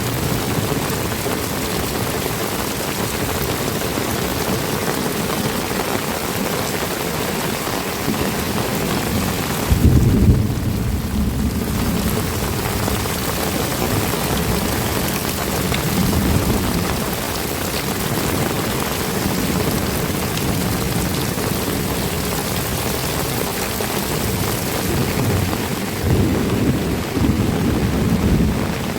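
Heavy rain falling steadily, with a loud low rumble about ten seconds in and again near the end.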